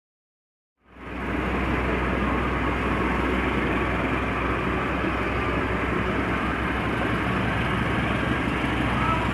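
Train running past on the track: a steady rumble of wheels and engine that cuts in about a second in and holds level.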